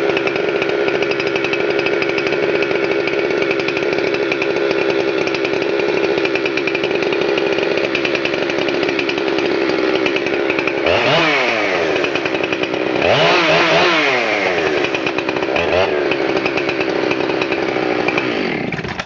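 A Husqvarna 372 XPW two-stroke chainsaw with a big-block 75cc motor runs steadily. About two-thirds of the way in it is revved up and down three times, and it shuts off near the end.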